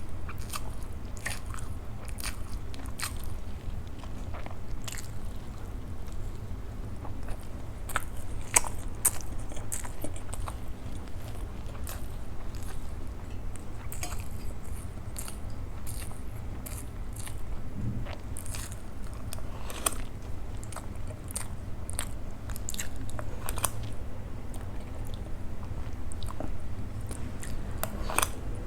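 Close-miked mouth sounds of a person chewing idli with sambhar and chutney: scattered short clicks and smacks, irregular throughout, over a steady low hum.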